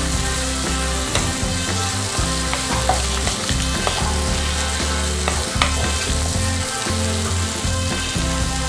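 Kondapindi leaves, onions, chillies and moong dal sizzling in hot oil in a non-stick kadai while a wooden spatula stirs them. A few short scrapes and taps of the spatula on the pan come through the steady sizzle.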